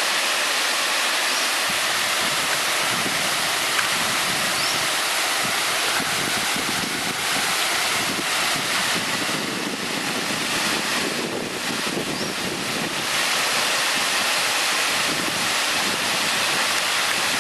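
Waterfall: a steady rush of falling water, loud and even throughout.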